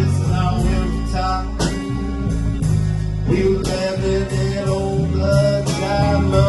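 Live band playing a song: a singer over guitar, bass and drums, with sharp drum or cymbal hits every second or so.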